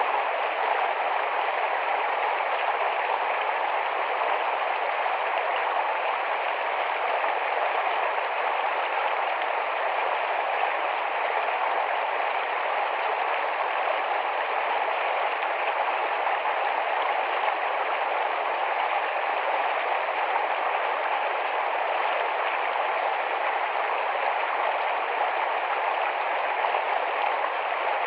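Rapid, shallow forest stream: water rushing and babbling in a steady, unbroken flow.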